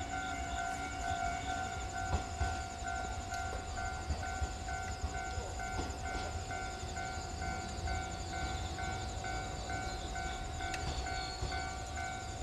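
An electric train rolling slowly into the station with a low, steady rumble. Over it sounds a steady electronic warning tone, with a higher beep repeating about twice a second.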